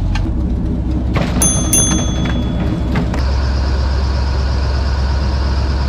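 Airboat engine and propeller running steadily, with a couple of sharp metallic clanks about a second and a half in; the engine note changes about three seconds in.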